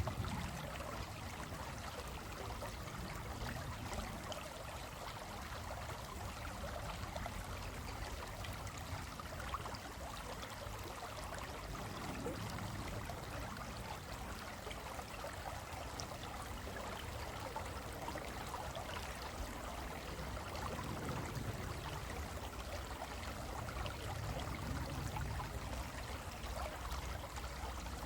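Stream water flowing steadily over rocks, a continuous rush and babble with a low rumble that swells and fades now and then.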